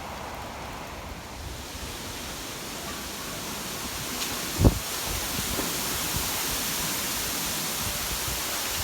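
Steady rushing noise of typhoon wind and water, growing louder and brighter from about two seconds in. One sharp low thump just past halfway is the loudest sound.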